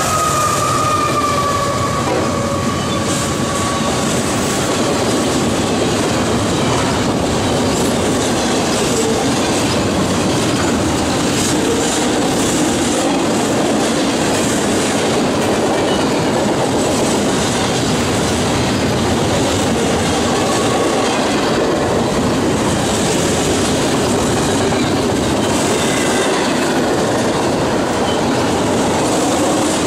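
Double-stack intermodal freight train passing close by: the steady rumble and clatter of steel wheels on rail as container well cars roll past. A high tone fades out in the first few seconds.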